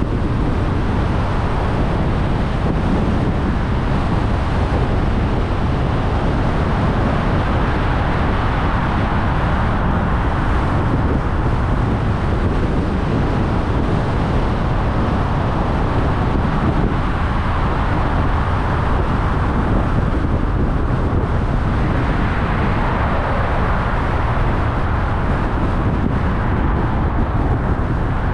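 A car driving along a road: a steady rush of tyre and wind noise with engine hum, swelling a little now and then.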